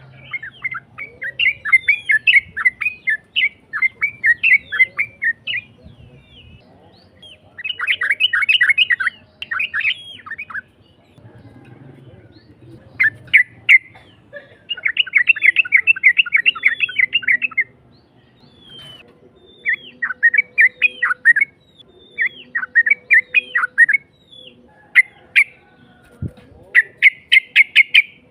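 Yellow-vented bulbul (trucukan) song: rough-voiced, rapid strings of quick chirping notes in bursts of one to three seconds, separated by short pauses. The long 'uplik-uplik' runs are joined into fast chatter.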